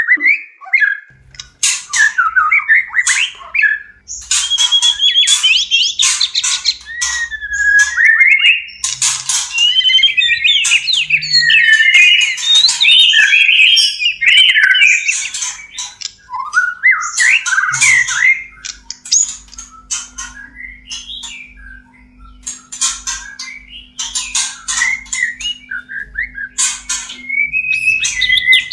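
White-rumped shamas in breeding condition singing and calling, a courtship exchange between male and female. It is a fast, unbroken stream of varied whistles, rising and falling sweeps and sharp clicking notes, busiest in the middle.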